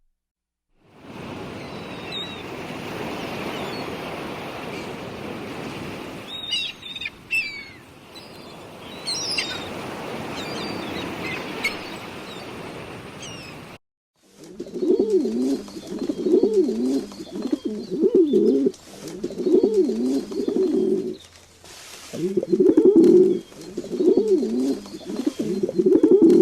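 Steady rushing noise with a few short, high bird chirps. Then, after a cut about halfway, a dove coos in repeated low calls about once a second, pausing briefly near the end.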